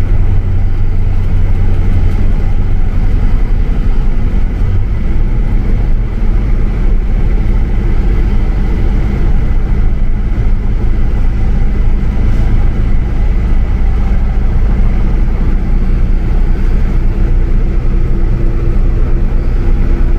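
Steady low drone of a motor vehicle's engine and road noise while driving, with a constant low hum throughout.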